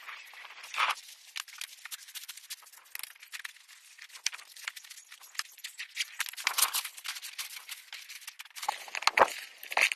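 Camping gear being handled and packed: a dense run of small rustles, clicks and rattles, with a few heavier knocks in the second half.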